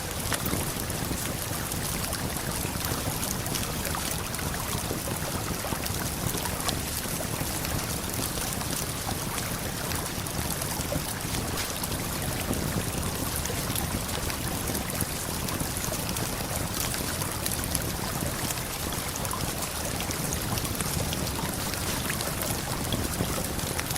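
Steady rushing of a river and waterfall, with faint scattered crackles of a campfire.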